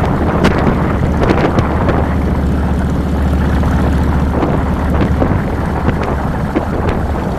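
2007 Harley-Davidson Fat Boy's V-twin engine running steadily under way, heard from the handlebars, with wind buffeting the microphone.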